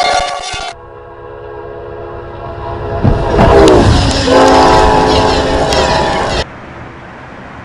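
Locomotive horns sounding in several short cuts. A horn chord stops abruptly, then a train rushes past with a loud burst of noise and a horn chord falling in pitch, then a steady horn is cut off suddenly and leaves a fainter steady hiss.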